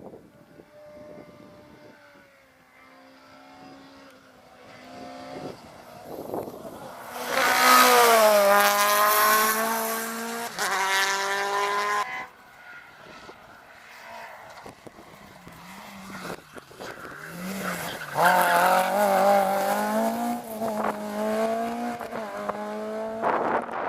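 Rally car engine at full throttle on a tarmac stage, revving hard with rising pitch broken by quick gear changes. It builds from faint to loud, drops away sharply about halfway through, then builds again near the end.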